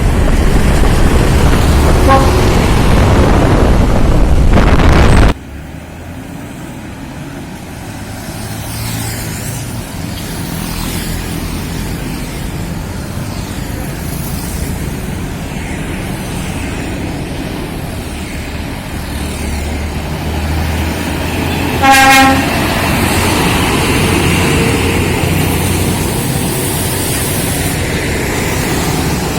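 Heavy truck running on the road with a steady low engine and road rumble; a loud rushing noise cuts off suddenly about five seconds in. A single short horn toot sounds about three-quarters of the way through.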